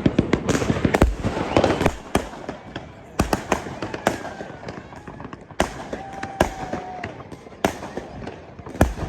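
New Year fireworks going off. A rapid run of bangs and crackling comes in the first two seconds, then single loud bangs follow every second or so.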